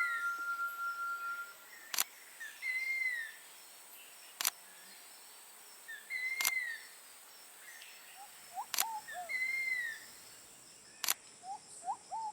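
Rainforest ambience: a bird gives a short, arched, whistled note about every two seconds over a steady high insect drone. A sharp single click sounds every two seconds or so, and quicker, lower notes from a second bird come in near the end.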